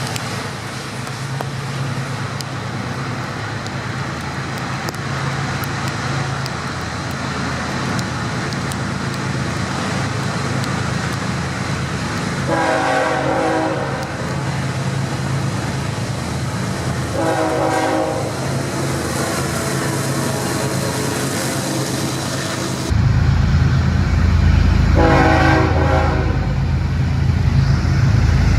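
A diesel-hauled freight train runs by with a steady rumble and rail noise. Its locomotive air horn sounds three times, the middle blast shorter. About two-thirds of the way in, the rumble turns suddenly louder and deeper.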